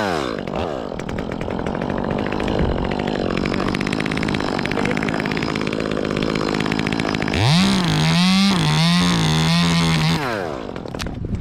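Chainsaw running: it revs up and falls back at the start, runs unevenly at a lower pitch for several seconds, then goes to a high, wavering full-throttle pitch about seven seconds in for some three seconds before easing off near the end.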